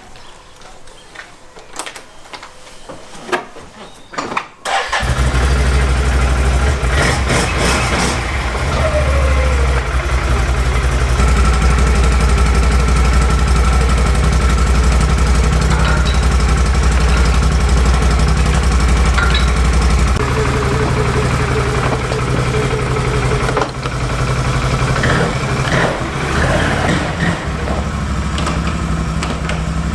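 A motor vehicle engine starting, with a few clicks before it catches about five seconds in. It then runs steadily, with its level and pitch shifting around eleven and twenty seconds in.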